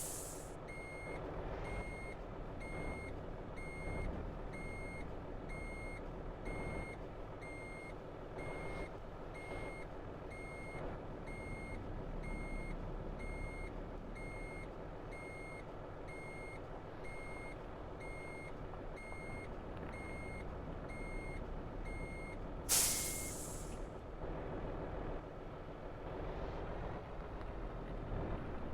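Scania V8 diesel truck running low while its reversing alarm beeps steadily at an even pace. About 23 seconds in a loud burst of compressed air hisses from the air brakes, and the beeping stops.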